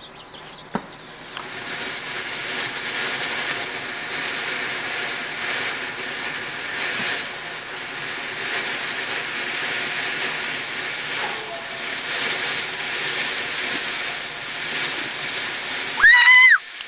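Fireworks: a spark-spraying firework hissing steadily, with a faint crackle, for about fifteen seconds after a sharp click. Near the end comes one loud, short whistle, bending in pitch, from a whistling firework.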